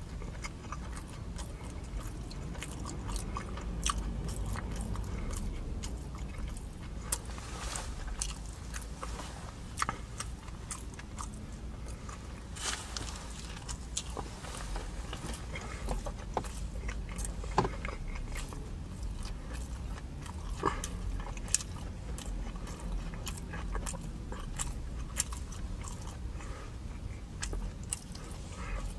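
A person biting and chewing food, with scattered sharp mouth clicks.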